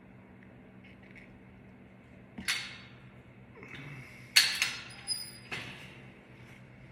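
A handful of sharp clinks and knocks, as of things being handled and set down, the loudest about two and a half and four and a half seconds in, over a steady low electric hum.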